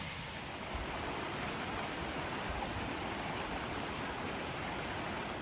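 Creek water rushing over rocks, a steady, even wash of noise.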